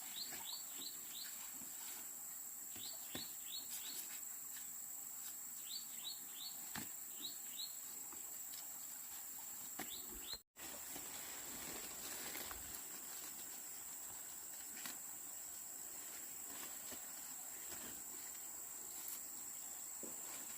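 Rural outdoor ambience: a bird calling in short runs of three to five quick falling chirps during the first half, over a steady high insect drone. A few soft clicks, and the sound cuts out for an instant about halfway.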